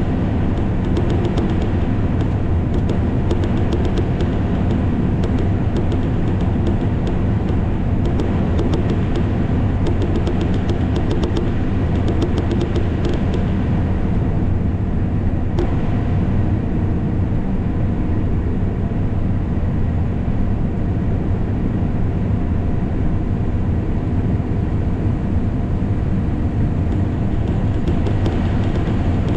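Combine harvester running steadily while cutting soybeans, with rapid clicking through roughly the first half.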